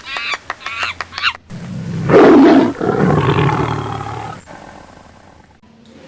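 Cats fighting: a quick run of short high cries, then a loud harsh scream about two seconds in, followed by a long wavering yowl that slowly fades out.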